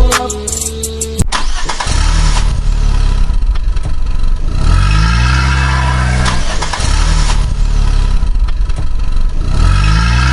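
A vehicle engine running and revving up and back down twice, a few seconds apart, with music under it.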